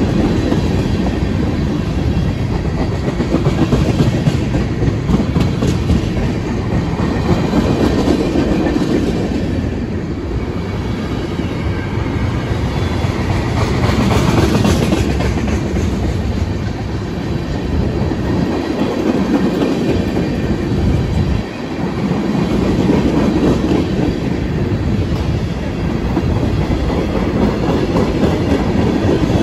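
Freight train's tank cars rolling past at close range: a steady, loud rumble of steel wheels on rail, with clickety-clack over the rail joints.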